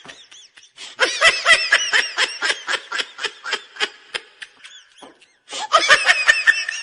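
A person laughing hard in rapid, high-pitched bursts, a long run of them, a brief break, then more laughter near the end.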